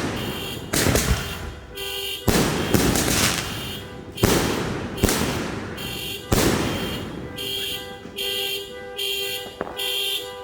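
Fireworks going off: several sharp bangs one to two seconds apart, each trailing off in a fading hiss. Around seven seconds in, the bangs stop and an electronic alarm beeps in a steady repeating pattern, about one and a half beeps a second.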